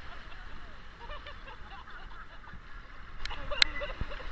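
Faint distant voices over a steady low rumble, with a couple of light clicks near the end.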